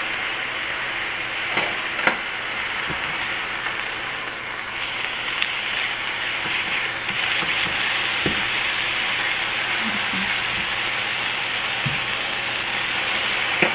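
Chicken breasts frying in a little oil in a pan, giving a steady sizzle, with a few faint clicks scattered through.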